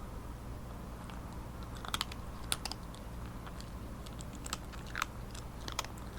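Cat chewing dry kibble, a handful of sharp, separate crunches spread across a few seconds.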